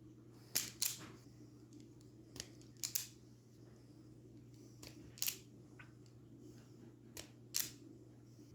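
Sharp small clicks, mostly in close pairs every two seconds or so, as pieces of HO scale sectional track are snapped together; a faint steady hum runs underneath.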